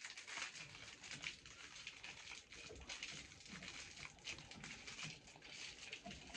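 Faint rustling and crinkling of plastic packaging, a dense run of small crackles.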